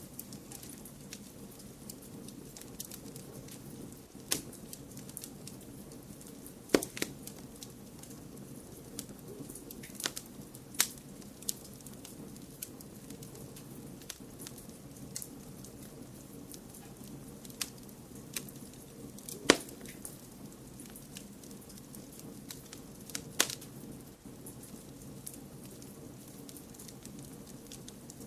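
Wood fire crackling: sharp pops and snaps at irregular intervals, a few much louder than the rest, over a steady low rushing noise.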